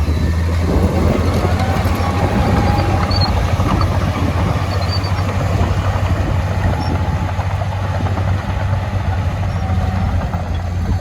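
Heavy diesel earthmoving machine engine running steadily with a deep, even drone, with a few faint high squeals over it.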